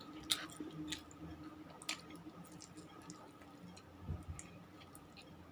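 A person chewing pizza with the mouth close to the microphone, with a few soft wet clicks in the first two seconds and a low thud about four seconds in, over a faint steady hum.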